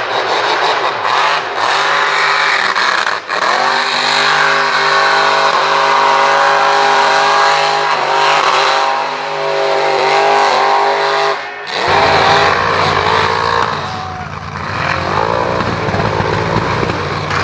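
Mega mud truck's engine revving hard and held at high revs for about eight seconds, its pitch wavering slightly. About twelve seconds in the note breaks off into a low rumble, and the engine revs up and down again near the end.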